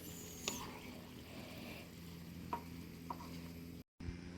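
Faint sizzling of food frying in a pan, with a few light clicks of a utensil. The sound drops out for a moment near the end.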